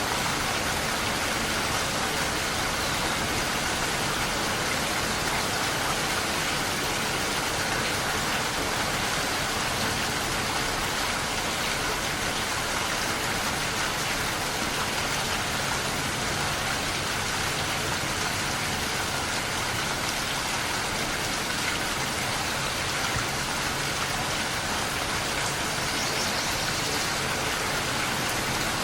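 Steady rain falling, an even hiss of drops without letting up.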